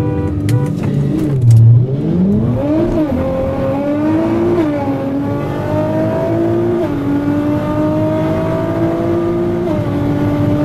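Engine revs blipped up and down twice, then a full-throttle acceleration run from a Switzer P800-tuned Nissan GT-R's twin-turbo V6, heard from inside the car. The note climbs steadily in pitch, broken by quick upshifts about every two to three seconds.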